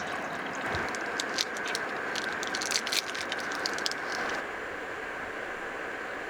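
Wood fire crackling, with a run of sharp pops over a steady hiss; the pops stop abruptly about four seconds in.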